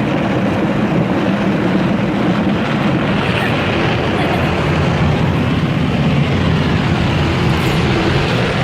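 Steady, loud rushing noise with a low rumble from a car, unbroken throughout.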